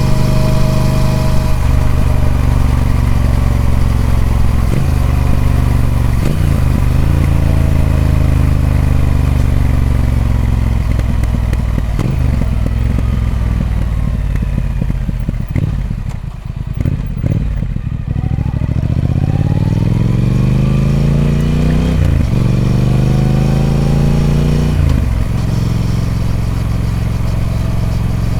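Triumph Speed Twin 1200's 1200cc parallel-twin engine through its stock exhaust. It slows with its pitch falling in steps to a low, uneven point about halfway, then pulls away with the revs rising, a gear change breaking the climb about three-quarters of the way in and another near the end.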